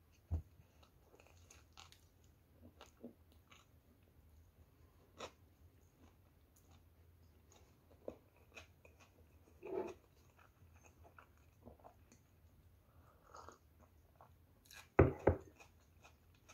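Close-miked chewing and wet mouth clicks of someone eating a sandwich of soft homemade bread with tomato and cucumber, scattered and irregular. Two louder low knocks come near the end.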